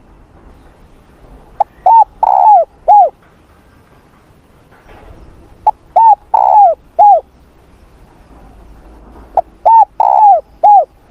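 Spotted dove cooing: three phrases about four seconds apart, each a short lead-in note followed by three loud coos, the middle one longest, each coo dropping in pitch at its end.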